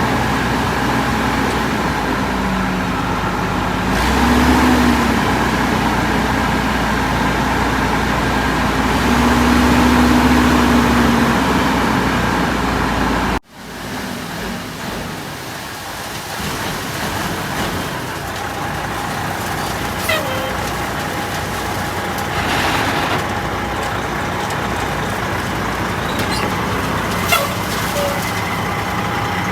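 Heavy truck engine running, its pitch rising briefly about four seconds in and again for a couple of seconds later on. About halfway through the sound cuts off abruptly and gives way to steadier, quieter road noise with a few sharp clicks.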